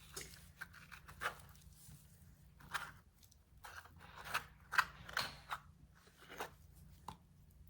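Kitchen knife cutting through a ripe avocado onto a cutting board: a dozen or so short, irregular cuts and taps, some with a brief scrape.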